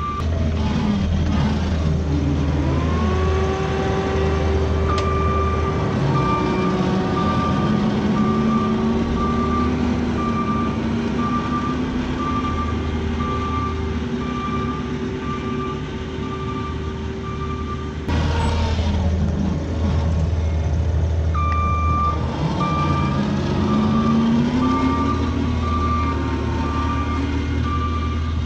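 Diesel engine of a tractor or skid steer working and changing speed under load, with its reversing alarm beeping steadily about once a second as it backs up. The beeping breaks off for a few seconds about two-thirds through, then resumes.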